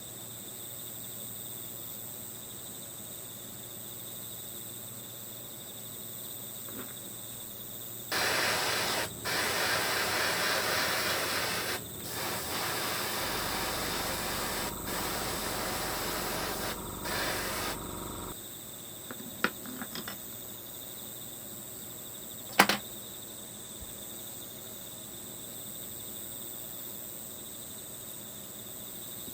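Crickets chirping steadily in the background. About eight seconds in, a loud hiss of spraying air starts, broken by several short pauses, and stops about ten seconds later; a few light clicks follow, then one sharp click.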